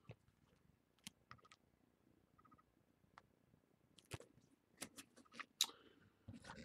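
Faint, scattered clicks and light taps of stiff chrome trading cards being handled and flipped one by one, sparse at first, then coming more often in the last couple of seconds.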